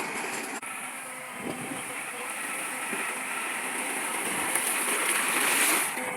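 Heavy earthmoving machinery working: a bulldozer and dump trucks running with steady diesel engine noise and a high hiss, growing louder toward the end.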